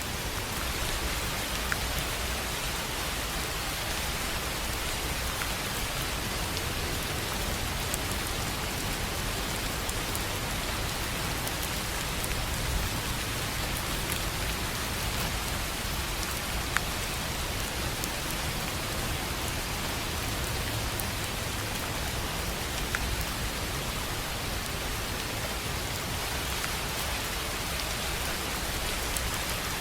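Steady rain falling on a tin roof, an even patter with a few louder single drops striking here and there.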